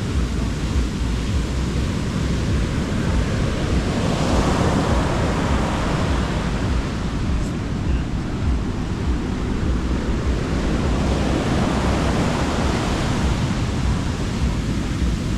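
Sea waves breaking and washing up the beach, the surf swelling twice, about four seconds in and again about eleven seconds in. Wind rumbles on the microphone throughout.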